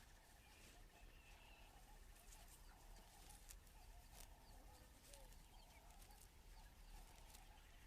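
Near silence: faint natural night ambience with a soft call repeating about every two-thirds of a second.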